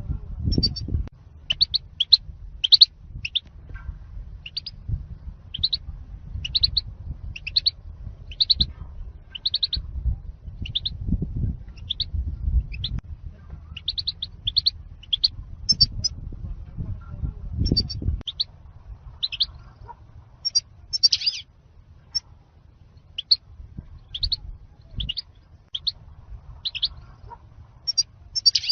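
European goldfinch calling: short, high chirps repeated about once a second. A low rumble runs underneath and stops about two-thirds of the way through.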